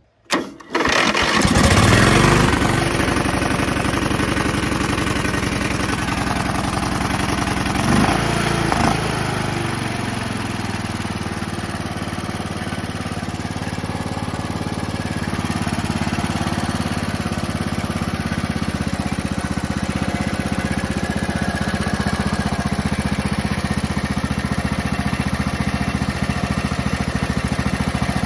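Tractor engine starting up with a replacement ignition coil fitted in place of one that had rusted through, catching right away, revving up about two seconds in, surging briefly again near eight seconds, then running steadily.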